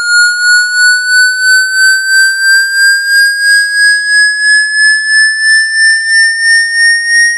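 Synthesized water-ejection tone: a single buzzy electronic tone slowly rising in pitch, pulsing in loudness about three times a second. It is played through a phone to vibrate water droplets out of the charging port.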